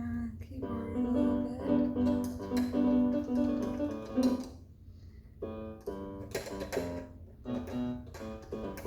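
Electronic keyboard played freely, not a set tune: a string of held notes, a brief pause a little past halfway, then more notes.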